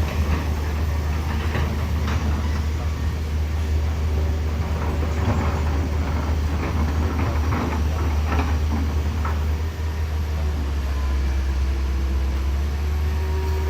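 A heavy vehicle's engine running with a steady low rumble, with scattered knocks and clatter over the first several seconds.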